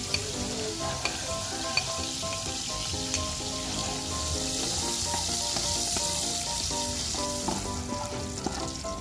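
Chopped garlic sizzling in hot cooking oil in a metal pot, stirred with a metal spoon that clicks against the pot a few times in the first seconds.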